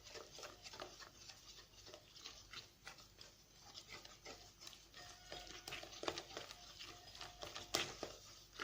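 A utensil clicking and scraping against a mixing bowl while pancake batter is stirred, as a fast, irregular run of light taps. A faint thin whine comes in about halfway through.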